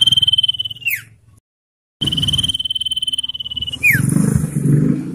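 Common iora calling: a long, fast trill held on one high pitch that ends in a quick falling note, given twice with a short silent gap between. Low rumbling noise follows near the end.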